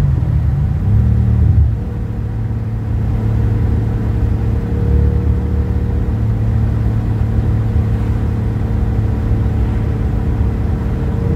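Audi S4's 4.2-litre V8 heard from inside the cabin: the engine pulls with rising pitch for the first second or so, eases off about two seconds in, then settles into a steady highway-cruising drone with road noise.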